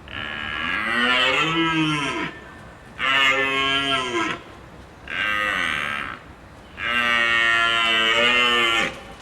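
Cow mooing: four long moos, one after another, with short pauses between them.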